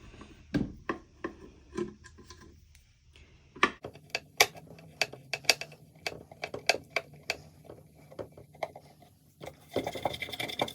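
Small irregular clicks and taps of hand tools and hardware as the handle is taken off a Rolodex drawer, coming thickest in the middle over a faint steady hum, with a brief scrape near the end.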